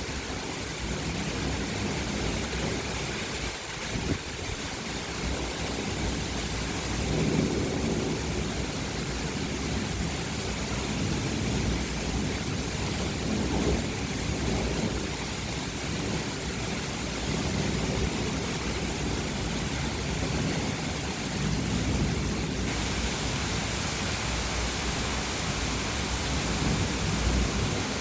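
Steady hiss of rain in a thunderstorm, with low rumbles that swell and fade several times.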